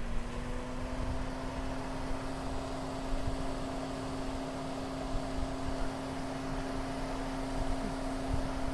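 A motor running with a steady hum at constant pitch, over a continuous rushing noise.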